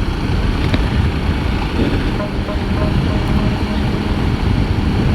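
Wind buffeting the microphone on a moving Royal Enfield Himalayan motorcycle, with the bike's single-cylinder engine running steadily underneath, its hum showing more clearly from about two seconds in.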